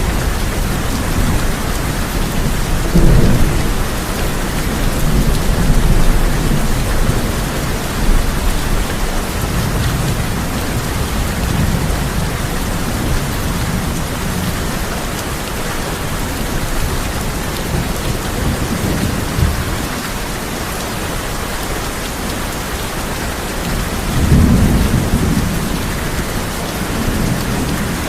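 Steady heavy rain drumming on a tin roof, with several rolls of low thunder rumbling through it. The strongest rolls come about three seconds in and again near the end.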